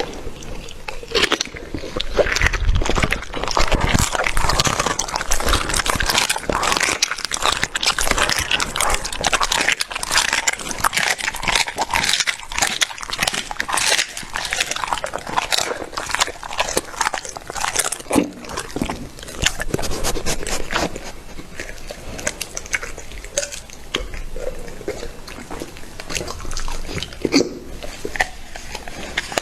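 A dog chewing and crunching raw meat, with wet bites and irregular crunches packed closely together throughout.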